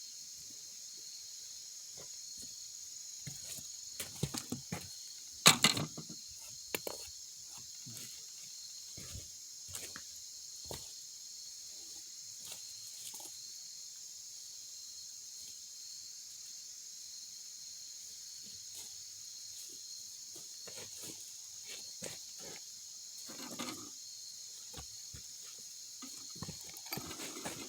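A steady high-pitched chorus of insects, with scattered clicks and knocks; the loudest knock comes about five and a half seconds in.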